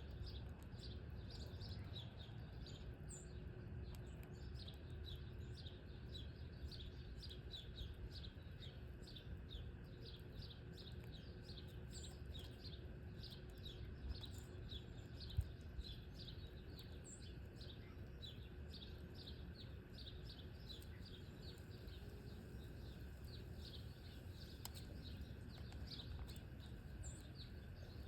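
Small songbirds chirping continually: a steady run of short, high, downward chirps, two or three a second, with an occasional higher note, over a faint low rumble. A single click sounds about halfway through.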